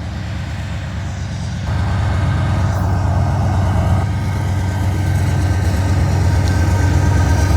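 Diesel freight locomotive running with a steady deep hum, getting louder about two seconds in.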